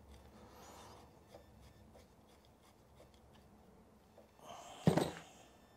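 Hand tools working the bolts of a motorcycle engine's gearbox cover: faint ticks and light scraping of metal, then one sharp metallic knock about five seconds in.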